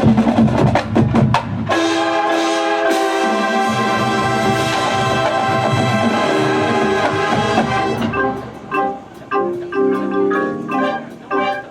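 High school marching band playing its show music. Drums and percussion hits come first; about two seconds in the ensemble holds a long sustained chord, and from about eight seconds in it breaks into short accented chords with mallet percussion.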